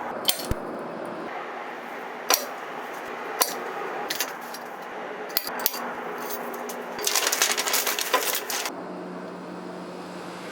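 Small metal parts and tools clinking and tapping as they are handled, in scattered single knocks, with a quick run of rattling clicks about seven seconds in.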